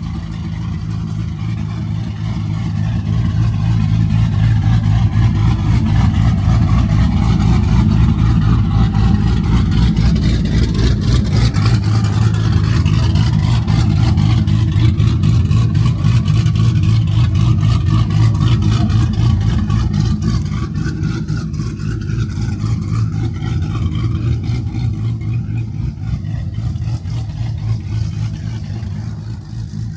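A car engine running close by, a steady low drone that builds over the first few seconds and eases off toward the end.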